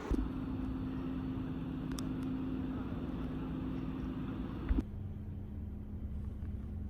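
A steady low mechanical hum with a constant tone, which drops a little in pitch and level about five seconds in.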